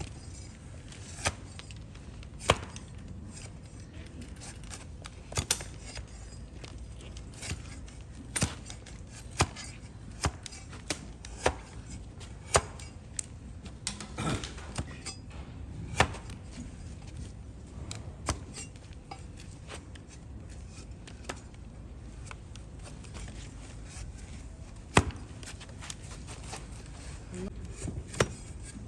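Hoof-trimming tools cutting into a donkey's overgrown hoof horn, making a series of sharp, crisp chopping knocks at irregular intervals about a second apart, with a pause of several seconds late on.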